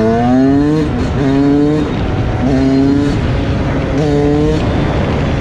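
Dirt bike engine revving up four times in quick succession, each time rising in pitch, with a short drop between.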